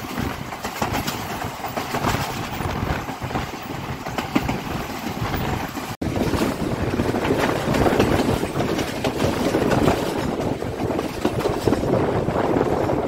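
Running noise of an express passenger train at speed, heard from an open carriage door: a steady rattling rumble with dense clicking of the wheels on the track. It drops out for an instant about six seconds in, then carries on louder.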